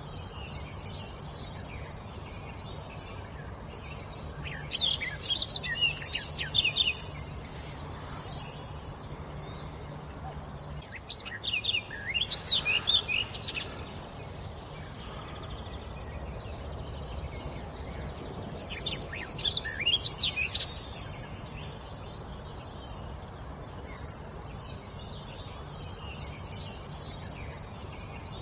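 A songbird singing three short bouts of rapid, high chirping phrases separated by pauses of several seconds.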